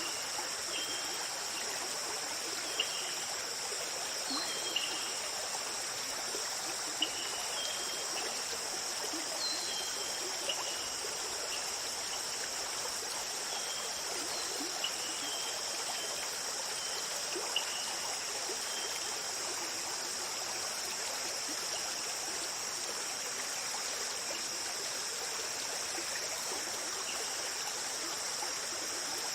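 Stream flowing steadily, with a constant high insect drone over it. Short high chirps come now and then through the first two-thirds.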